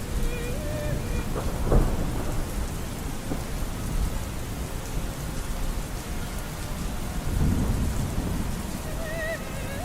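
Steady rain with rumbling thunder, a sharp louder crack a little under two seconds in and a low rolling swell around seven to eight seconds. Faint operatic singing with vibrato sits under the rain at the start and comes back near the end.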